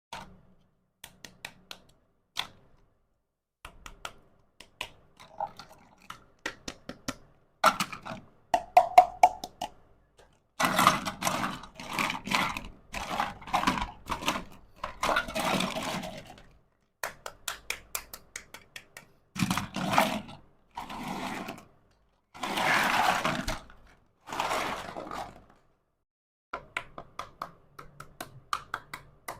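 Miniature toy kitchen pieces and their packaging being handled: many small clicks and taps, with longer stretches of scraping and rustling in the middle.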